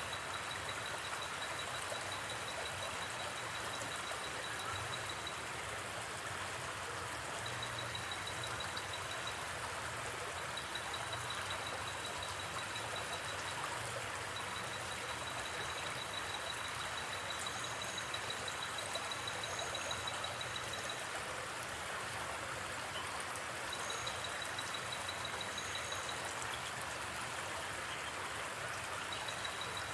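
Steady rushing of a gently flowing river. Over it, a high, pulsing night-insect trill comes and goes in stretches of a few seconds, with a few short higher chirps in the second half.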